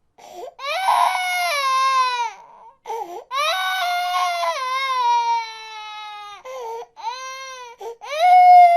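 Infant crying in long wails, each one starting high and sliding down in pitch, broken by short gasps for breath. Two long wails, a few shorter cries, then a louder wail near the end.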